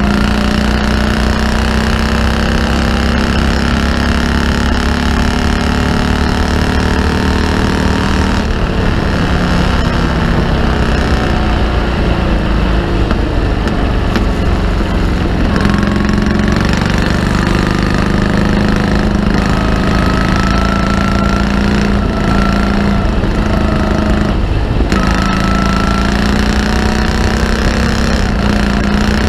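Morgan Super Aero three-wheeler's V-twin engine running hard at racing speed, heard from the open cockpit over a constant low rush of wind. The engine note climbs gradually and breaks off abruptly three times, about eight, fifteen and twenty-five seconds in, then picks up again.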